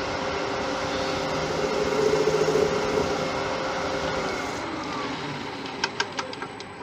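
Laguna 1836 wood lathe running with a large tiger wood bowl mounted, then switched off and spinning down, its hum sliding lower in pitch and fading about four seconds in. A few light clicks follow near the end.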